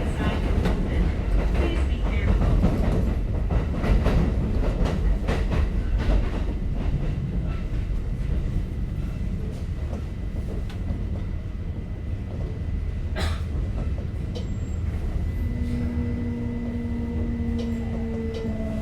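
Kintetsu 5800 series electric train running, heard from inside the car: a steady low rumble with scattered clicks from the rails, one sharp click about two-thirds through. Near the end a two-tone motor whine sets in and slowly falls in pitch.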